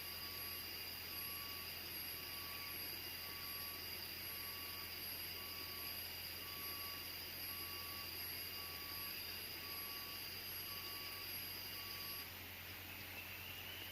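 Rainforest insects calling: several steady high-pitched trills with a regular pulsing call repeating underneath. The calls cut off suddenly near the end.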